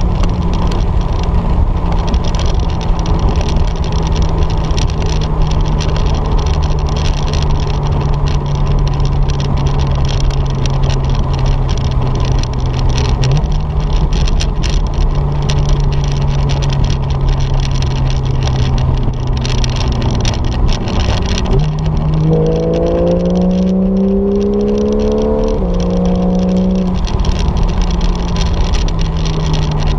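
Porsche 911 flat-six engine heard from inside the cabin, running steadily at cruise with a slowly sagging note for about twenty seconds. About twenty-two seconds in it revs up hard through the gears, the rising pitch broken by quick drops at each upshift.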